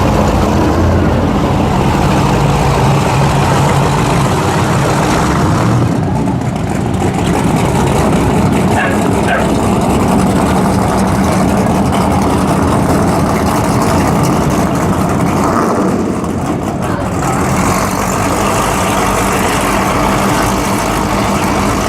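Performance powerboat engines running loud and low, a steady rumble whose pitch shifts a couple of times as the boats move.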